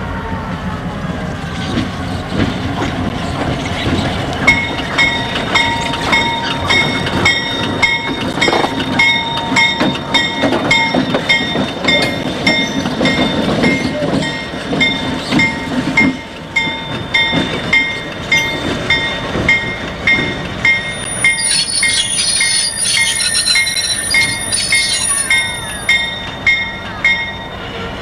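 Train passing: rumble of rolling cars and clicking wheels, with a bell ringing about twice a second from a few seconds in. Wheels squeal near the end.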